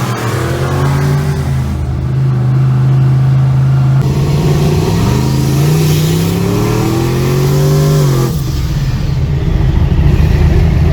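Car engine under acceleration: its pitch holds, then climbs steadily for several seconds and drops sharply about eight seconds in.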